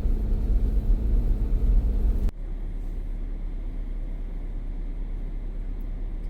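Car driving, heard from inside: a steady low engine and road rumble that drops suddenly a little over two seconds in to a quieter steady hum.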